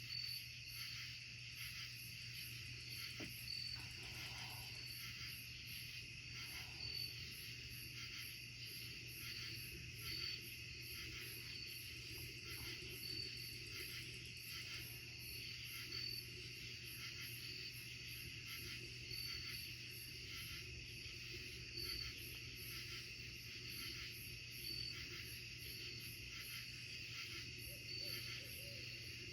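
Night-time insect chorus in the woods: steady high trilling with a rapid, even pulse and a brighter chirp repeating every second or two.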